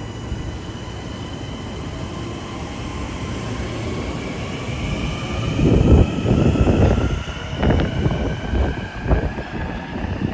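LIRR M9 electric multiple-unit train pulling out and accelerating, its traction motors giving a rising whine. Wheel and rail rumble swells loudest about halfway through as the cars pass close by, with uneven knocks as they roll over the track.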